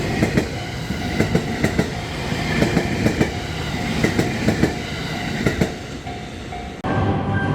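Train passing over the level crossing, its wheels clacking repeatedly over rail joints above a steady rumble. About seven seconds in, the train sound cuts off abruptly and music takes over.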